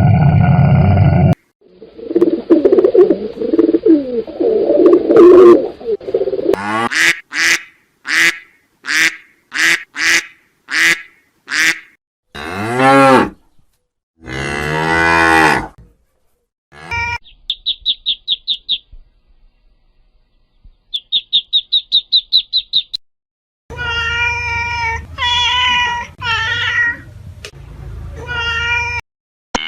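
A run of different animal calls, one after another, with cattle mooing among them. Partway through come two brief bursts of rapid, high-pitched trilling.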